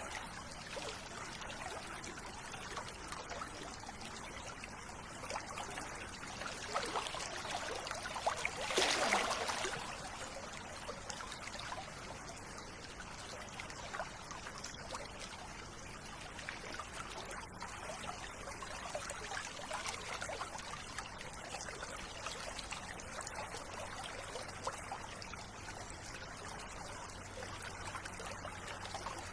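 River water running and trickling, with a brief louder gush about nine seconds in.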